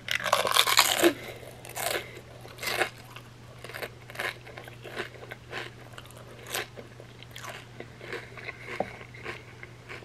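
A crisp chip loaded with dip bitten into with a crunch lasting about a second, then chewed with scattered crunches and mouth sounds, close to the microphone.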